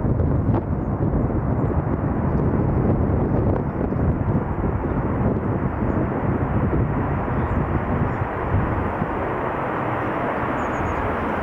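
Jet noise from a Boeing 737-8's CFM LEAP-1B turbofans, a steady rush that eases slightly near the end, mixed with wind buffeting the microphone.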